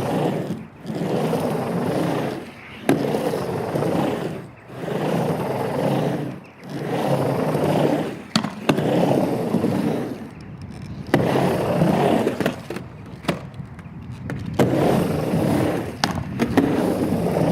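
Skateboard wheels rolling back and forth across a half pipe, the rolling noise swelling and fading about every two seconds with each pass. Sharp clacks of the board or trucks striking the ramp or coping come a few times.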